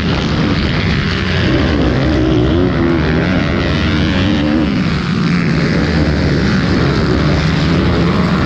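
Minibike (pit bike) engine racing, its pitch rising and falling as it revs up and down through the gears.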